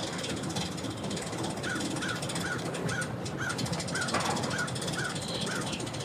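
A bird calling over and over in short, evenly spaced calls, about two or three a second, over a steady background hiss.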